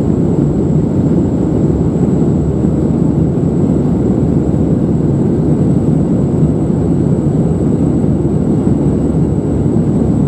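Steady cabin noise of an Airbus A319-111 airliner in flight, a constant low rumble of its CFM56 engines and airflow, with a faint steady high whine above it.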